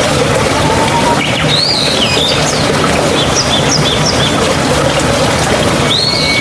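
Steady rush of flowing water with birds calling over it: a few sweeping, whistled calls about a second in, a quick run of short chirps around the middle, and another sweeping call near the end.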